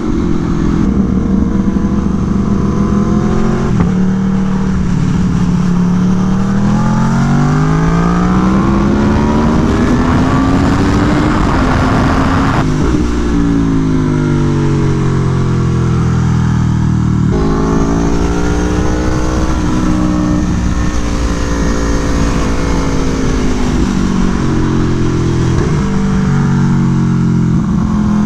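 Aprilia Tuono V4 1100 Factory's V4 engine, through an SC Project exhaust, ridden hard on a racetrack. The engine revs up and drops back again and again as the rider accelerates and brakes for corners, with a sudden cut in the note about halfway through, over steady wind rush.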